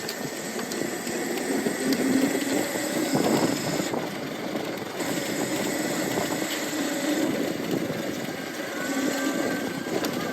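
Lightning Rods electric drive motor humming and whining as the titanium e-bike rides along, its pitch drifting up and down with speed, with a faint higher whine near the end.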